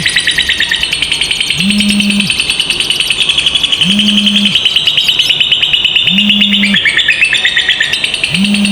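Lovebirds chattering in a long, rapid, high-pitched trill (the 'ngekek panjang'), running on without a break. A short low hum pulses underneath about every two seconds.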